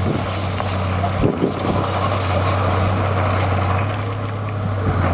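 Heavy diesel engine of earthmoving machinery, a bulldozer or dump truck, running steadily under load, with a few short knocks a little over a second in.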